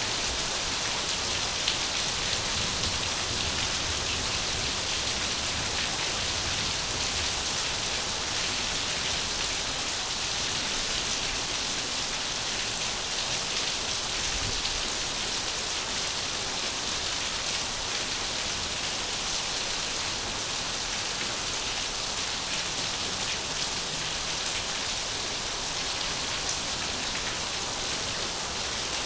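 Steady rain falling, an even, unchanging hiss with faint ticks of individual drops.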